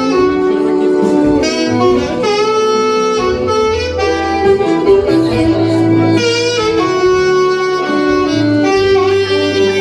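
Instrumental music: a saxophone plays a melody of held notes over an accompaniment with a low bass line.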